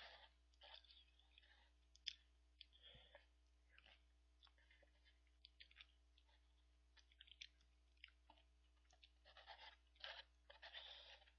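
Faint close-up chewing of instant cup ramen noodles, mixed with small clicks of wooden chopsticks against the plastic bowl, busiest near the end.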